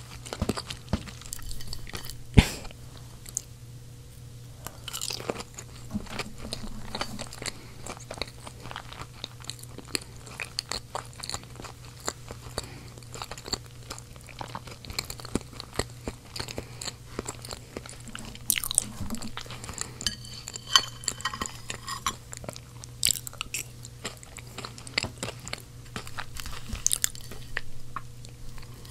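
A child chewing seasoned potatoes close to the microphone, with many short mouth clicks and one sharp click about two seconds in.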